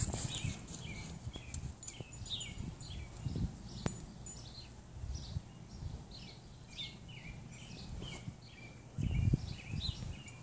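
Small birds chirping in quick repeated short notes, with a few low thuds about three seconds in and again near the end.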